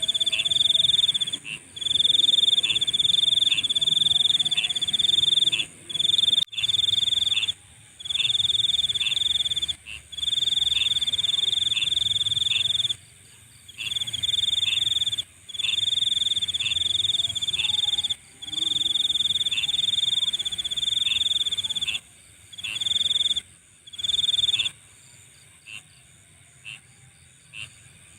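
Night insects calling: a loud, high-pitched continuous trill sung in long bursts of one to three seconds with short breaks, falling silent about 25 seconds in. Faint short chirps repeat roughly twice a second behind it.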